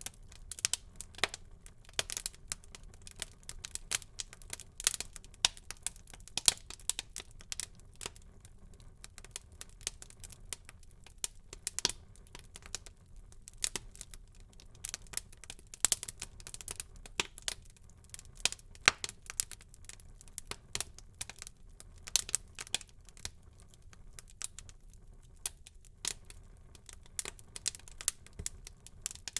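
Wood fire in a fireplace crackling: a steady run of sharp pops and snaps at irregular intervals over a soft low rumble of the flames.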